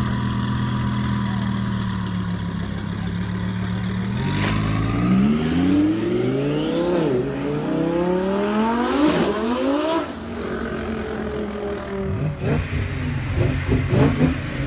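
A performance car with a loud exhaust idles, then accelerates hard away: the engine note climbs steeply, drops at a gear change, climbs again and cuts off. Near the end an engine revs in short, quick blips.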